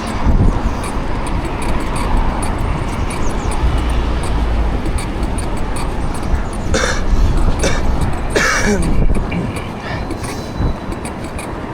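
Wind buffeting the microphone and city traffic noise while riding a bike in traffic, a steady rushing with a deep rumble. Two short louder hisses come about seven and eight and a half seconds in.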